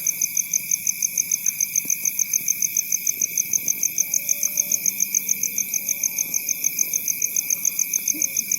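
Night insects, crickets, chirping in a fast, even pulse of about six chirps a second, over a steady lower-pitched insect trill.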